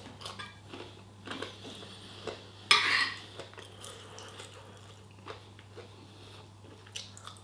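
Someone eating a meal: cutlery clinking and scraping on a plate, with soft chewing and one louder noisy sound about three seconds in.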